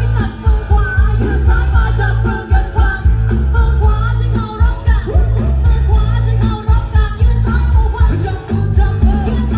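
Loud live music from a Thai rot hae, a truck-mounted band and sound system: a heavy, pounding bass beat under a wavering lead melody.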